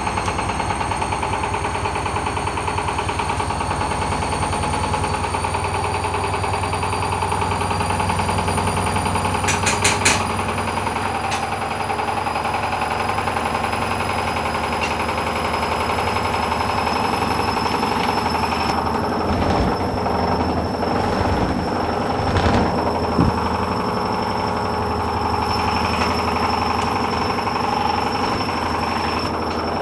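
Hoover Dynamic washing machine on a spin cycle with an unbalanced load: a fast, steady rhythmic rumble and rattle as the drum turns, under a motor whine that slowly rises in pitch as the spin speeds up. A few louder knocks come about ten seconds in and again between about twenty and twenty-three seconds, as the off-balance drum bangs.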